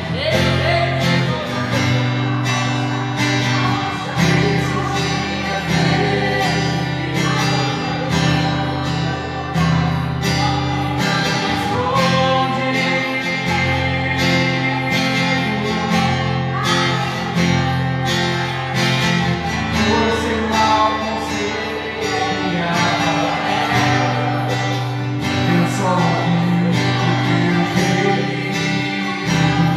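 Worship music played on a strummed acoustic guitar.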